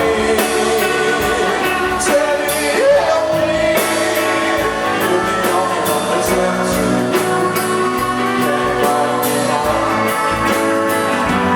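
Live rock band playing: electric guitar and drum kit with singing, continuous and loud in a large room.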